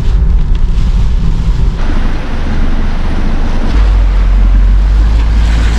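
Storm wind buffeting the microphone in a moving vehicle, a loud deep rumble. A broader rushing hiss comes in about two seconds in, and the low rumble grows heavier just before four seconds.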